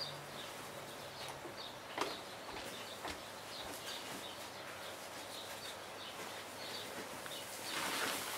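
Garden ambience with small birds chirping repeatedly. There is a single knock about two seconds in and a louder rustle near the end.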